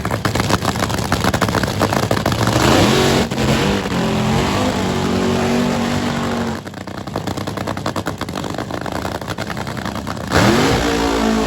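A loud drag racing car engine running with a fast, rough pulsing and revving up, the pitch climbing about two to three seconds in and again near the end.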